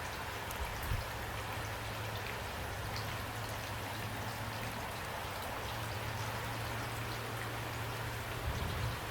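Steady rain falling, with single drops ticking out of the hiss, over a low hum. Two soft low thumps come about a second in and near the end.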